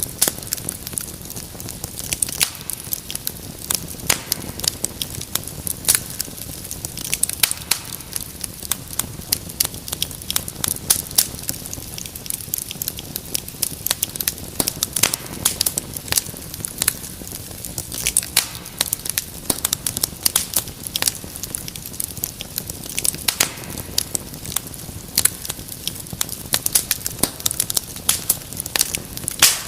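Wood fire crackling, with frequent sharp irregular pops and snaps over a steady low hiss.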